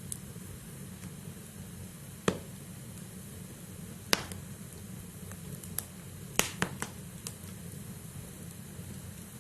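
Logs burning in a fireplace: a steady low rush of flames with sharp crackles and pops from the firewood, single loud pops about two and four seconds in and a quick cluster of pops around six and a half seconds.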